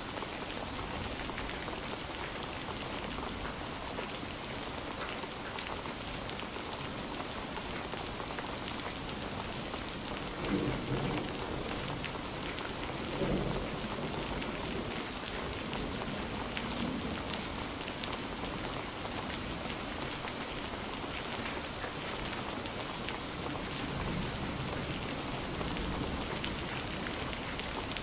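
Steady rain falling, with rolling thunder: two louder rumbles close together a little over a third of the way in, and fainter ones later.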